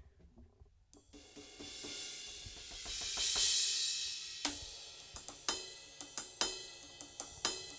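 Roland VAD503 electronic drum kit being played. A cymbal wash swells up from about a second in, then a run of single sharp drum and cymbal hits follows.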